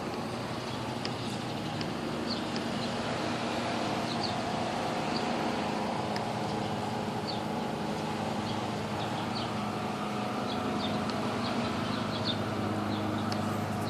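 Lawn mower engine running steadily under heavy rain, with short high chirps throughout, more of them in the second half.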